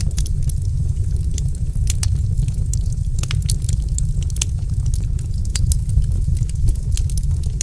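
Log fire in a fireplace crackling: irregular sharp pops and snaps, several a second, over a steady low rumble.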